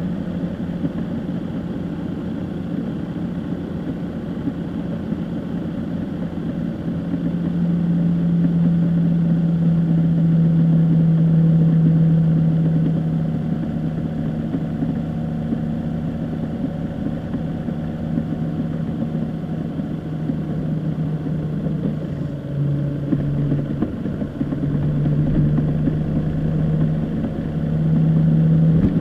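A car's engine and road noise, heard steadily while driving. The engine note strengthens and shifts in pitch several times as speed changes, swelling about a quarter of the way in and again near the end.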